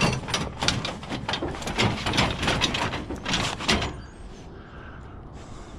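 Rapid clattering and rattling of scrap being handled, a dense run of knocks for almost four seconds, then it dies down to a low, steady background noise.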